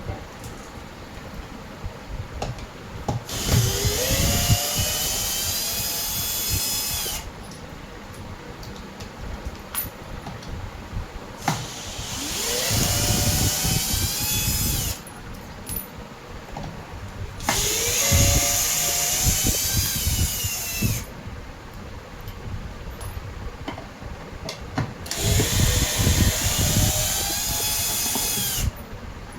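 Power drill running in four bursts of about three to four seconds each, each one winding up quickly to a steady whine and then stopping abruptly, with small clicks and handling sounds in the pauses between.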